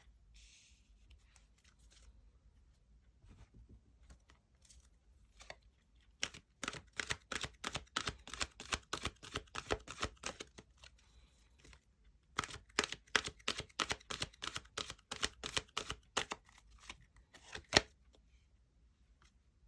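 Tarot cards being shuffled by hand: a faint rustle, then two runs of quick card-on-card slaps at about four a second, with one sharper card snap near the end.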